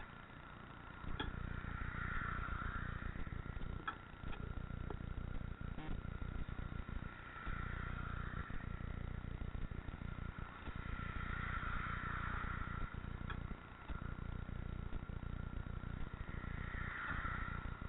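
Wind rumble and road noise from a bicycle ride, gusting with a few brief lulls, with light clicks and rattles from the bike and a faint steady whine.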